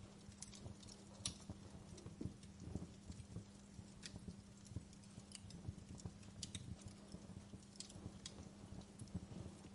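Fire in a fireplace crackling faintly: irregular small pops and snaps over a low rumble, with a steady low hum underneath.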